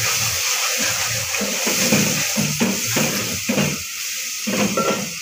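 Onions and garlic frying in a metal pot with a steady sizzle. A wooden spoon repeatedly scrapes and knocks against the pot as they are stirred.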